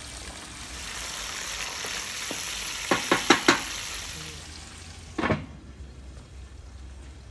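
Lamb and vegetables sizzling in a heavy iron pan, the sizzle swelling, with four quick sharp knocks about three seconds in. About five seconds in, a glass pan lid knocks down onto the pan, and the sizzling drops to a softer hiss.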